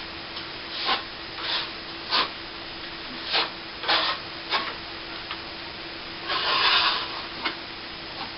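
Steel plastering trowel spreading wet cornice cement across a plasterboard ceiling patch: a run of short scraping strokes roughly half a second to a second apart, then one longer stroke near the end.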